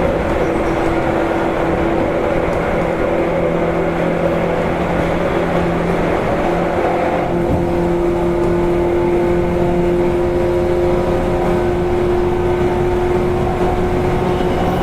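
Running sound of a 185 series electric train's motor car under way: a steady whine from the traction motors and gears over rumbling wheel and rail noise. About seven seconds in the hiss drops and the whine shifts slightly higher in pitch.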